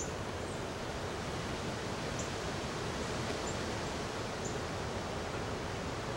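Steady, even outdoor rushing noise, like wind in the woods, with a few faint, short, high-pitched chirps from small birds scattered through it.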